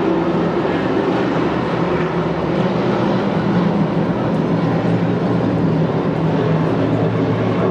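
Race truck engines running at speed on a paved oval, a steady, loud mix of engine notes and noise.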